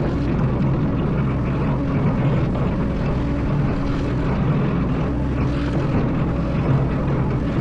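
Excavator's diesel engine running with a steady drone.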